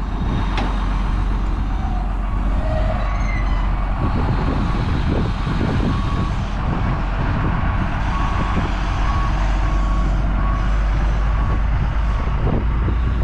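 Heavy vehicle engine running with a reversing alarm beeping at a steady pace as it backs up.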